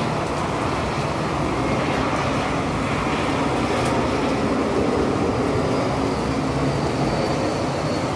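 Steady, loud rushing noise of a rainstorm in a city, with a low rumble like traffic running under it and swelling slightly around the middle.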